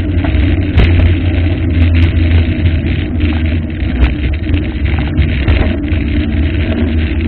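Waterfall rushing: a loud, steady roar of falling water with a heavy low rumble.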